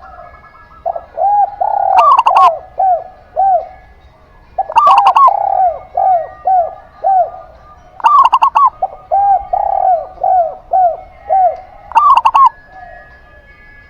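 A zebra dove and a spotted dove calling together in cage-bird style: a loud, clipped burst of quick notes repeats about every three seconds, while runs of five or six arched, softer coos fill the gaps between.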